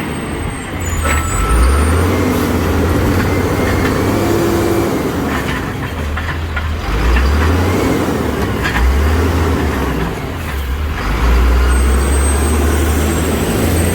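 Old garbage truck's engine running, its low rumble swelling and easing several times, with a few sharp knocks and clanks.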